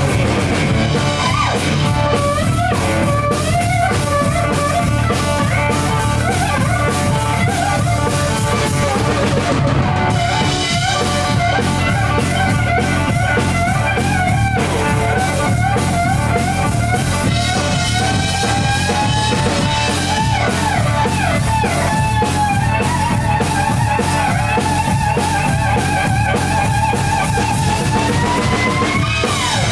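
Live blues-rock band playing instrumentally: an electric slide guitar solo with pitches that glide and bend, over a steady drum kit beat. Near the end the guitar glides sharply upward.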